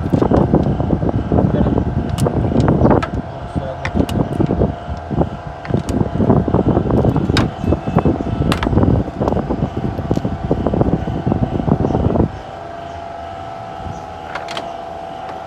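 Electric fan running steadily with a constant hum, set up to cool the car's engine. Over it, loud irregular noise with indistinct voices stops suddenly about twelve seconds in, and a few sharp clicks ring out.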